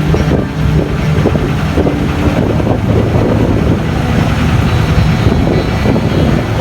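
Steady engine drone with a low hum, under wind buffeting the microphone.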